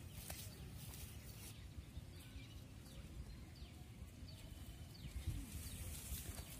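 Faint outdoor ambience: distant birds giving short, falling chirps, over a low rumble of wind.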